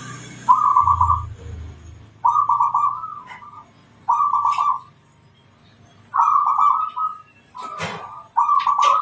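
Zebra dove (perkutut) cooing: five short, trilled coo phrases about two seconds apart, with a few sharp clicks near the end.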